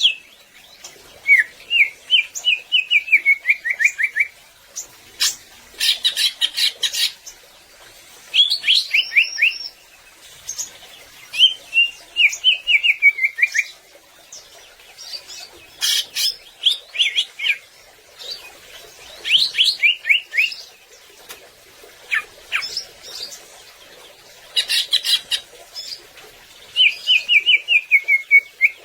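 Cucak ijo (green leafbird) singing energetically in full, varied song: phrases of rapid chirping notes, several sliding downward in quick series, broken by short scratchy rattles and pauses of a second or two.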